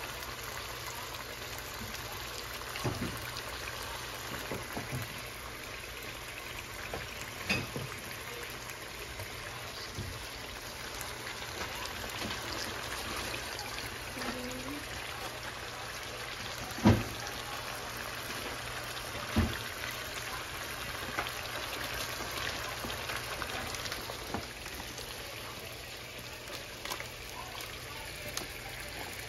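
Chicken pieces sizzling gently in oil in a nonstick frying pan, the oil still coming up to heat. A few short knocks cut through the sizzle, the loudest about halfway through.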